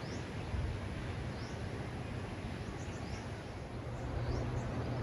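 Steady outdoor ambience, a low rumble and hiss, with a few faint, short bird chirps scattered through it.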